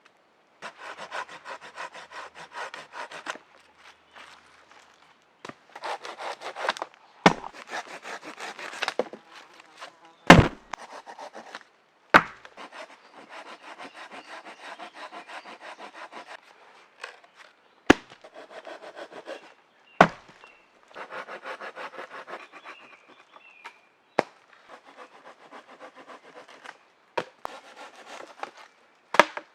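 Hand saw cutting through wood in several bouts of quick, even strokes, with sharp wooden knocks between the bouts.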